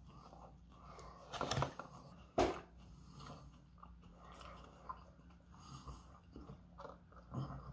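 A person chewing a mouthful of burger, with two louder mouth noises in the first few seconds and another near the end, and quieter eating sounds in between.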